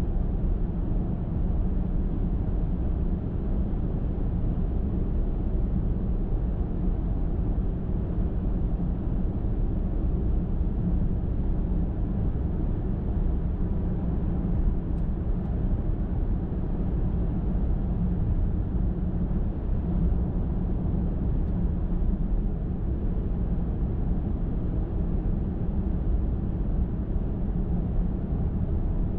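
Car driving on a highway: a steady low road rumble that holds even and unchanging throughout.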